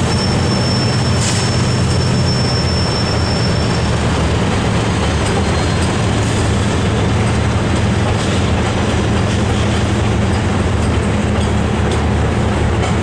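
Diesel locomotives of a loaded coal train working upgrade, a loud steady low engine drone with the rumble of the train. A thin high-pitched squeal runs through the first four seconds.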